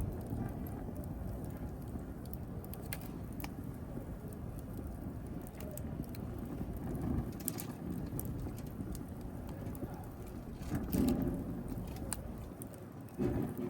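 Wood fire burning in a fireplace: a steady low rumble of flames with scattered sharp crackles and pops from the burning wood. A few louder pops come about halfway through and twice near the end.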